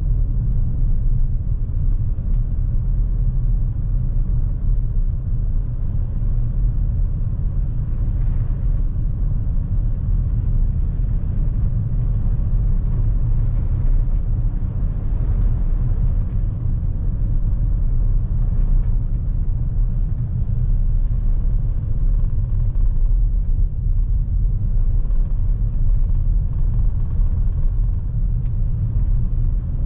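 Steady low rumble of road and tyre noise from a 2023 Lexus NX350h hybrid SUV being driven at a constant pace.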